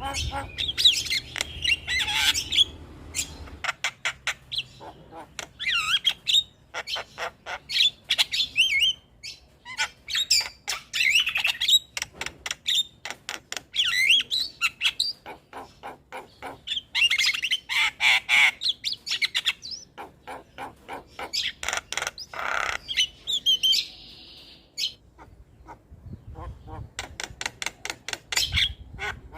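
Javan myna (jalak kebo) singing a varied, chattering song: rapid runs of clicking notes mixed with harsh squawks and short chirped whistles, in bursts a second or two long with short pauses between.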